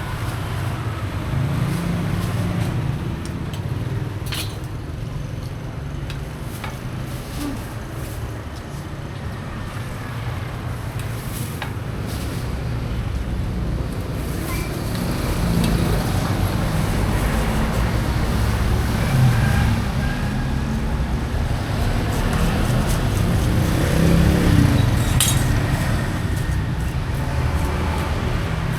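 Outdoor traditional-market ambience, with motor vehicle engines running and passing and a low rumble throughout. A few sharp clinks or knocks stand out, one near the start, one about a third of the way in and one near the end.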